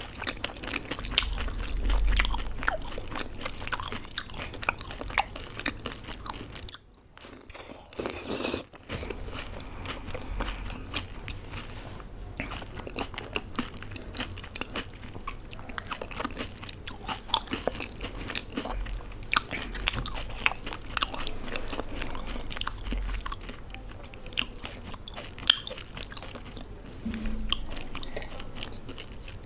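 Close-miked chewing and crunching of dahi golgappe, the crisp fried puri shells cracking between the teeth in many small, irregular crunches. The sound drops away briefly about seven seconds in.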